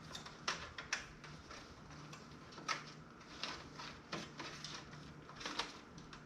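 Hands working cables and parts inside a PC case: scattered light clicks and knocks of plastic and metal being handled, over a faint steady hum.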